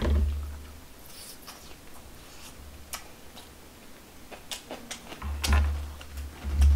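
Close-up eating sounds: chewing with scattered wet mouth clicks and smacks, several a second at times. There are low thumps at the start and again in the last second and a half.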